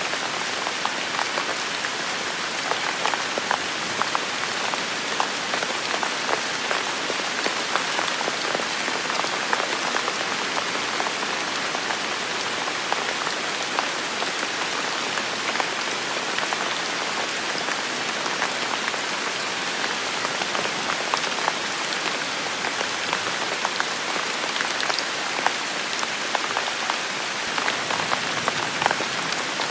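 Steady heavy rain falling in a forest, a dense even hiss with many close, sharp drop impacts scattered through it.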